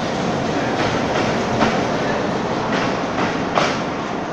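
An intercity passenger train of diesel locomotive and coaches rolling past at a station platform: a steady rumble with the clickety-clack of wheels over rail joints, a few sharper clacks standing out, the loudest about three and a half seconds in.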